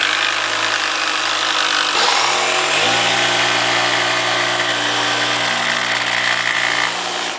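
Handheld electric power sander running against a plywood board's edge, grinding down a high spot on the traced curve. It runs steadily, its pitch dropping about two seconds in and again a moment later as it bears into the wood, then cuts off at the end.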